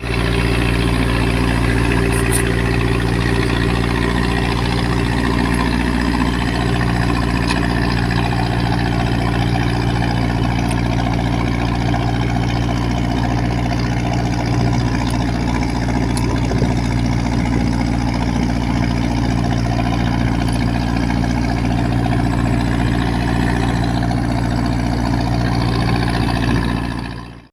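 Boat's Mitsubishi 4D31 four-cylinder diesel main engine running at a steady speed.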